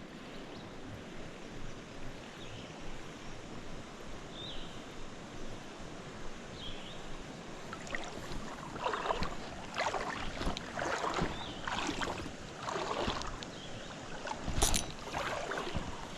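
Creek water running steadily. Past the halfway point, irregular louder rustling and splashing sounds come and go, with a sharp knock near the end.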